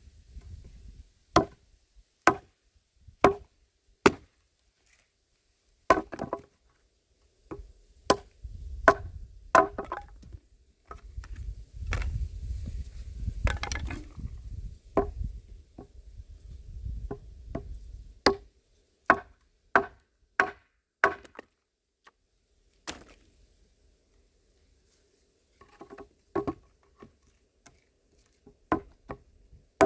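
A handmade axe striking wood, chopping firewood: runs of sharp blows, often about one a second, with short pauses between runs. A stretch of low rumbling noise runs under the blows about a third of the way through.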